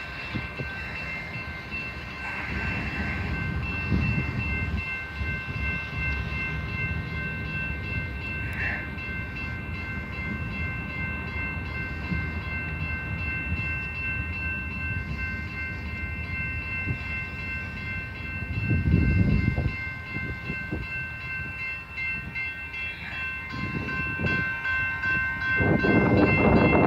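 A freight train's cars roll slowly past with a continuous low rumble and a steady high squeal of several tones held throughout. A loud low rush hits about two-thirds of the way in, and the train grows louder near the end.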